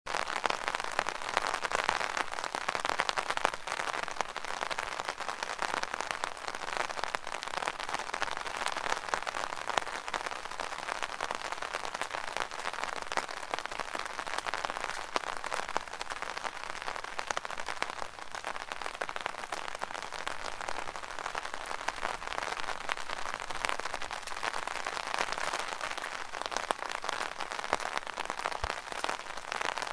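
Rain pattering on an umbrella canopy: a dense, steady patter of many small drop ticks.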